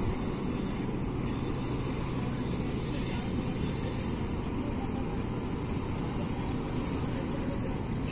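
Distant train running on the line, a steady low rumble.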